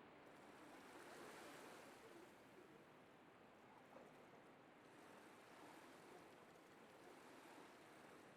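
Near silence: a faint, even rushing noise of re-recorded ambience, swelling slightly about a second in.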